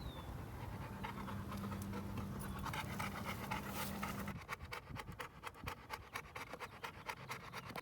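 Quick, even panting, several breaths a second, starting about halfway through, over a steady low hum in the first half.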